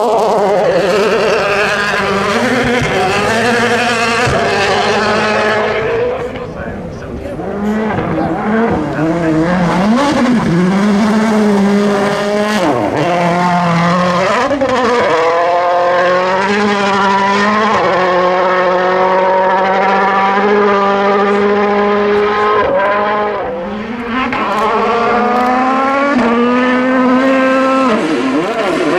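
2017-spec World Rally Car's turbocharged four-cylinder engine revving hard under full throttle, its pitch climbing and dropping sharply through gear changes over and over. The engine note eases off briefly twice, about six seconds in and again near the end.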